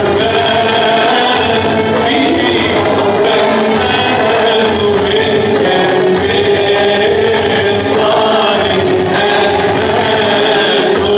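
Arabic Christian hymn sung by voices over instrumental accompaniment, with long held notes and a steady jingling beat at the top.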